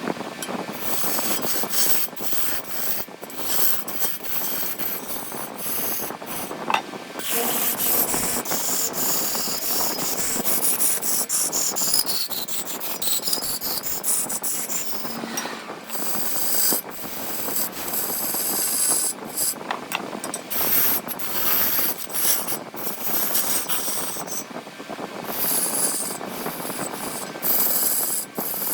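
A tool working wood spinning on a lathe: an uneven scraping and hissing with many short breaks as the tool meets and leaves the wood.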